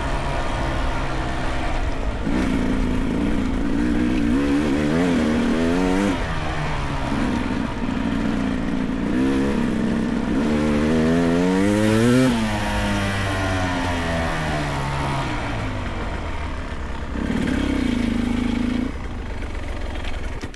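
Beta 300 Race two-stroke dirt bike engine revving up and down repeatedly as it climbs, the pitch rising and falling with the throttle, with its highest rev about twelve seconds in.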